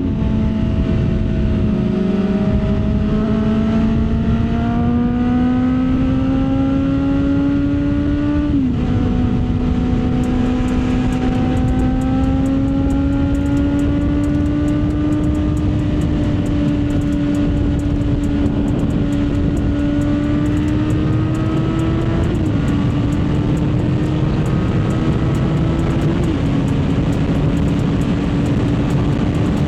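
Kawasaki Z900 inline-four engine under way, its pitch climbing slowly and dropping sharply three times as the rider shifts up, about 9, 22 and 26 seconds in, over steady wind rush on the helmet microphone.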